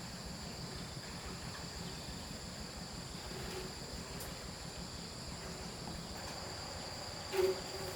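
Insects trilling steadily in several high, unbroken tones. A brief low pitched call comes near the end.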